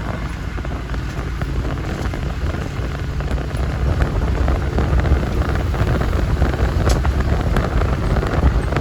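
Wind buffeting the microphone over the low, steady rumble of a moving vehicle, growing slightly louder toward the end.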